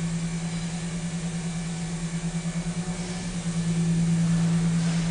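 A 2005 Dodge Durango's 5.7-litre V8 idling: a steady low hum with an even pulse, swelling slightly in the second half.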